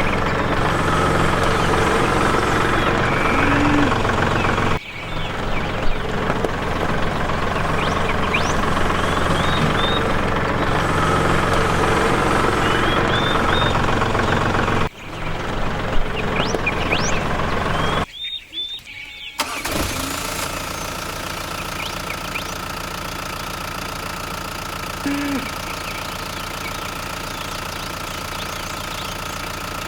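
A small engine or motor running steadily. It is cut off abruptly a few times, with a short dropout a little past the middle, after which it runs on slightly quieter.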